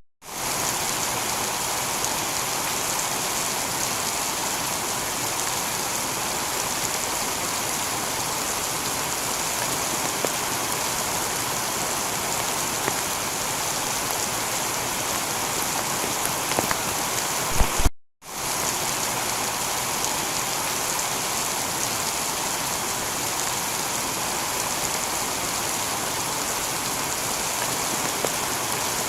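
Steady heavy rain falling on a tiled roof. The sound cuts out for a moment about eighteen seconds in, just after a sharp tap, then carries on.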